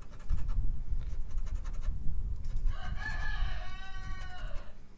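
A rooster crowing once, a single long call starting near the middle, over a low rumble of wind on the microphone.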